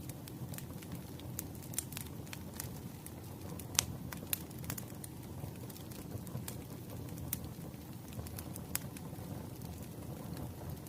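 Wood fire burning with a steady low rumble of flame and scattered sharp crackles and pops, the loudest pop a little under four seconds in.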